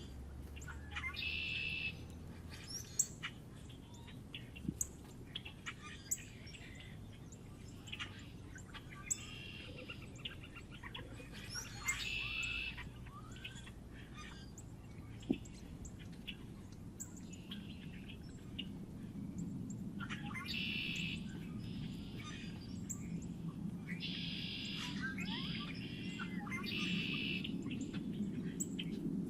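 Small birds at a feeder chirping and chattering in short bursts, with a few sharp clicks, over a low background hum that swells in the second half.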